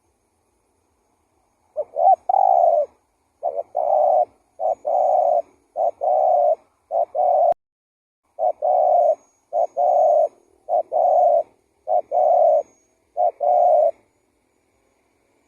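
Spotted dove (tekukur) cooing: a steady run of about a dozen coos, each a short note followed by a longer one, starting about two seconds in and stopping near the end. This is the kind of call used as a lure to draw wild turtle doves in.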